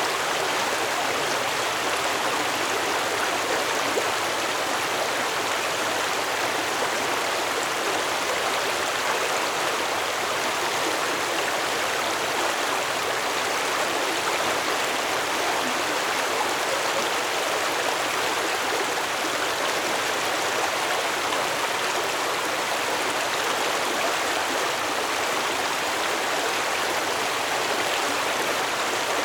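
Stream water flowing over stones with a steady, even rushing and babbling.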